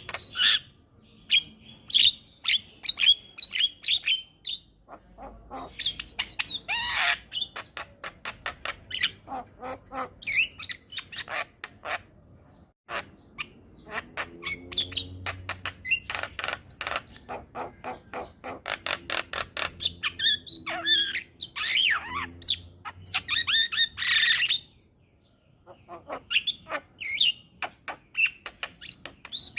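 Javan myna (jalak kebo) singing a fast, varied song of chattering clicks, squawks and whistled phrases, with a short pause about thirteen seconds in.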